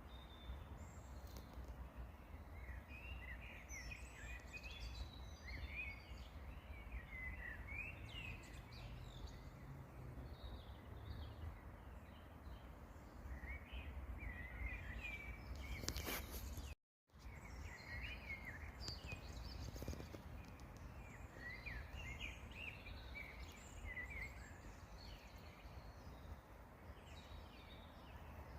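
Small songbirds chirping and twittering in many short, quick notes over a steady low outdoor rumble. Near the middle there is a sharp click, then a moment of total silence.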